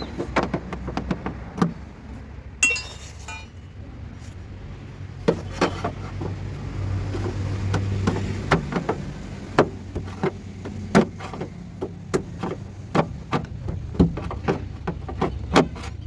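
Irregular sharp knocks and taps of work on the car's bodywork, with one ringing metallic clink about two and a half seconds in, over a low steady hum.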